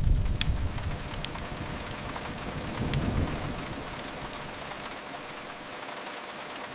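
Steady rain hiss, with a low rumble that fades in the first moment and swells briefly about three seconds in, and a few faint crackles near the start.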